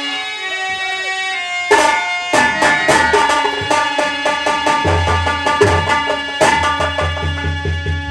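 Instrumental Indian folk music: held melody notes, joined about two seconds in by hand drums playing a fast rhythm of strikes, with a deep bass drum coming in about halfway through.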